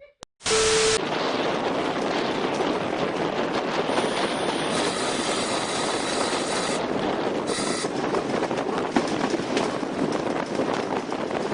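A train running past with a steady, dense rumble and rapid clatter. It opens with a short loud burst holding one steady tone, and a high-pitched squeal rides over it for about three seconds in the middle.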